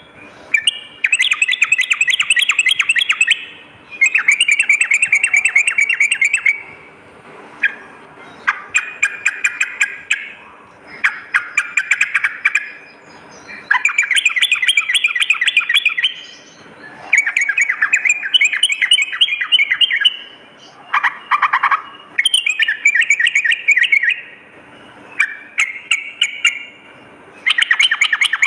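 Yellow-vented bulbul (trucukan) song: rapid, bubbling chattering phrases of one to three seconds each, repeated again and again with short pauses between them.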